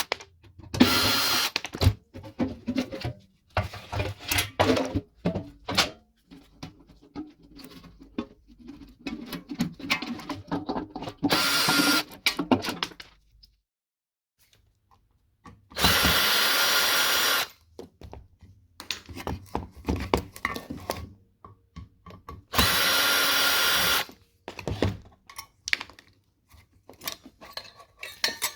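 Power drill running in four short bursts of about a second and a half each, as a microwave oven is taken apart. Between the bursts, metal parts clatter and knock as they are handled.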